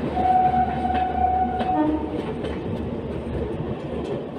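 Duronto Express running through a station at speed, heard from aboard: steady rumble of coaches and wheels, with wheels clicking over rail joints. A train horn sounds one steady note for about a second and a half near the start, then a brief lower note.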